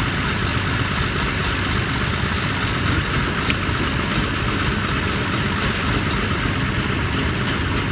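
A heavy vehicle's engine running steadily, a dense, even noise with no change in pitch or load.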